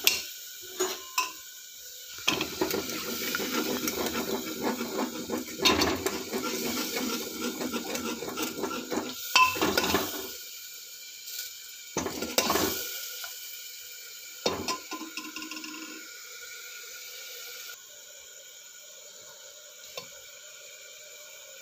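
A metal spoon stirring and scraping in a cooking pot, with sharp clinks and knocks of utensils against it. Near the end only a faint steady hiss remains.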